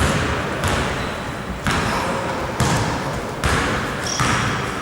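A basketball bouncing on a court, about six bounces at an irregular pace of roughly one a second, with a short high squeak about four seconds in.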